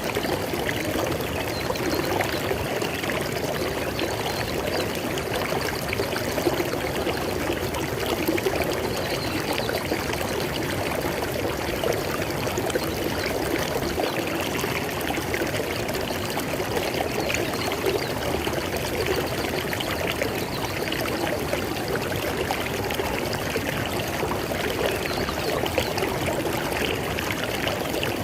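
River water flowing and splashing steadily, a continuous rushing babble with small splashes throughout.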